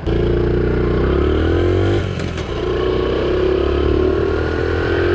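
Honda CT70's small single-cylinder engine pulling under way, rising in pitch, dropping briefly about two seconds in at a gear change, then rising again.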